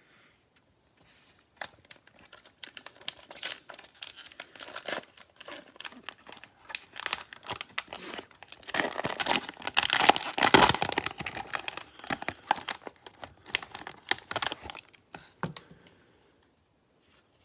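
Cellophane wrapper of a Prizm football cello pack crinkling and tearing as it is handled and torn open, a dense run of crackles that is loudest about halfway through.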